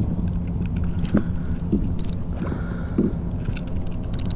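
A few short knocks against a plastic kayak while a double-hooked fish is worked free of the lure, over a steady low rumble of wind on the microphone.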